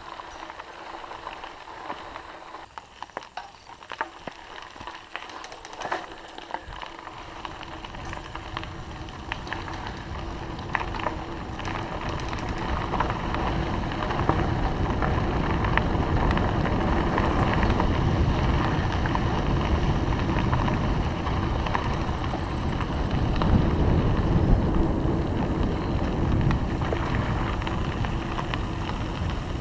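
Riding a bicycle: tyres rolling and crackling on the road with scattered clicks, then wind rushing over the microphone that builds to a loud, steady rumble about ten seconds in as the bike gathers speed.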